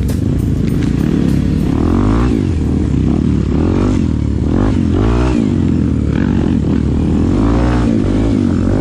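A vehicle engine revving up and down several times, rising in pitch around two seconds in, four to five seconds in, and again near seven and a half seconds.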